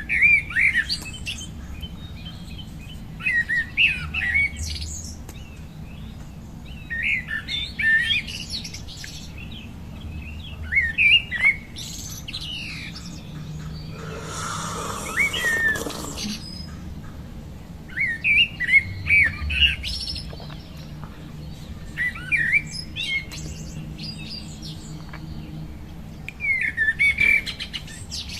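A bird singing short chirping phrases, one burst of quick rising and falling notes about every three to four seconds. About halfway through there is a brief hiss lasting a couple of seconds.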